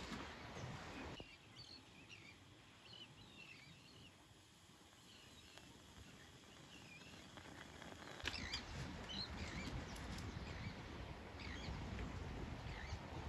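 Small birds chirping again and again in short, quick chirps. About eight seconds in, a low, steady rushing noise of the open air comes in under them.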